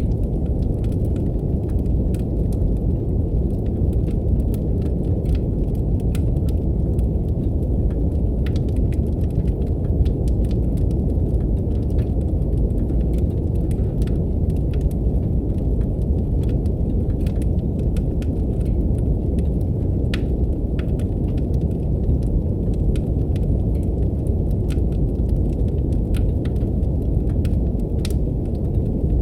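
Steady brown noise, a deep even rumble-like hiss, mixed with the irregular crackle and pop of a wood fire in a fireplace.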